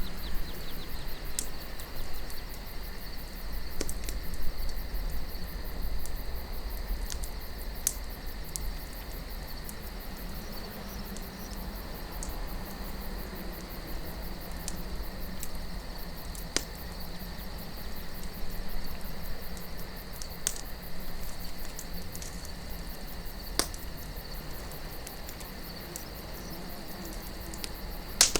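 Campfire crackling, with scattered sharp pops, over a low steady wind rumble and a continuous chorus of crickets.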